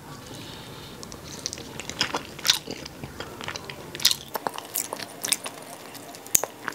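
A person chewing a soft mouthful of tuna mixed with mayonnaise close to the microphone: wet mouth smacks and clicks scattered irregularly, a few of them louder.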